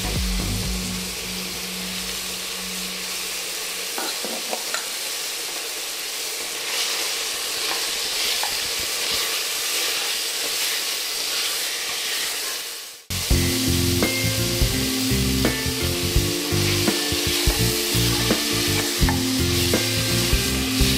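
Mutton curry frying in a pan, a steady sizzling hiss with light taps and scrapes of a spoon stirring it. Near the two-thirds mark the sound drops out for a moment, then the sizzling comes back louder.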